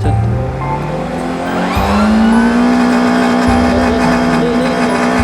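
Car engine revving up over about two seconds and held at high revs as the car tries to drive out of deep snow, the wheels spinning without getting free.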